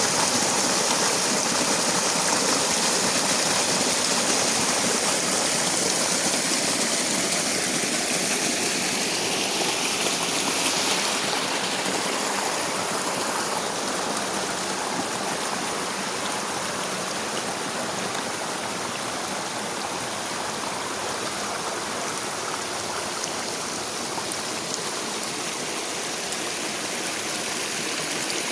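Steady rushing hiss of rain and running rainwater, dense and even, easing slightly after the first ten seconds or so.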